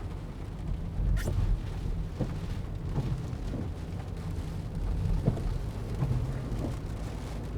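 Steady low rumble inside a moving car's cabin, with wind and rain noise over it and a few faint knocks.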